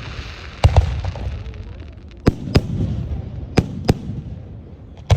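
Fireworks display: aerial shells bursting in sharp bangs, mostly in pairs a few tenths of a second apart, about every second and a half, with a low rumble between the bursts.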